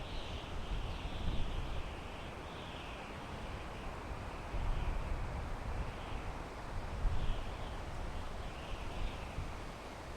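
Wind blowing through pine trees: a steady rushing with a low rumble that swells in gusts several times.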